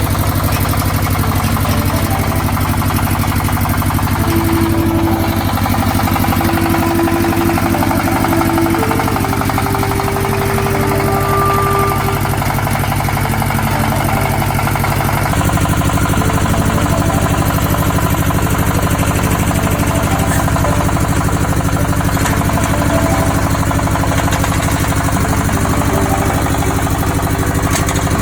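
A water well drilling rig's engine running steadily, with a fast, even firing beat and brief higher whining tones over it. The sound changes abruptly about halfway through, then carries on steadily.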